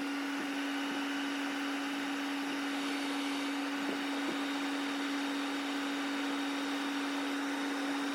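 Gas furnace's draft inducer motor running steadily with an even whir and a constant hum during the start-up delay before ignition.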